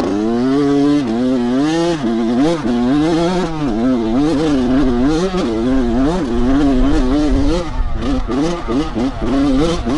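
Dirt bike engine being ridden hard, its revs rising and falling over and over, about twice a second, as the throttle is worked.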